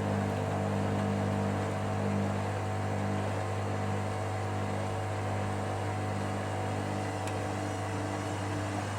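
Hoover Dynamic Next washer-dryer's motor humming steadily as the drum turns, working up to its first intermediate spin with a single bathmat load that the owner doubts it can balance well enough to spin.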